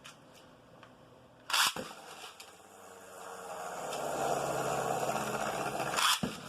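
Beyblade Burst spinning tops in a plastic stadium: a sharp crack about one and a half seconds in, then a whirring, scraping spin noise that builds up and holds, and another sharp crack near the end as the tops hit.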